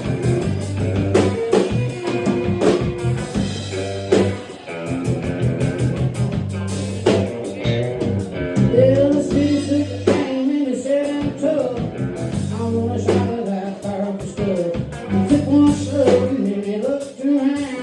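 Live country band playing an up-tempo honky-tonk song: guitar, bass and drum kit with a singer, loud and steady throughout.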